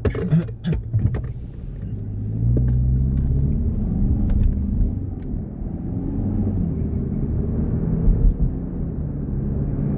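Car engine and road noise heard from inside the moving car, with a few sharp clicks near the start. About two and a half seconds in the engine gets louder and higher as the car speeds up.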